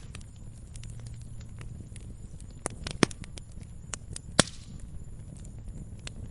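Fire crackling in a fireplace: scattered sharp clicks over a low steady rumble, with a few louder pops about three seconds and four and a half seconds in.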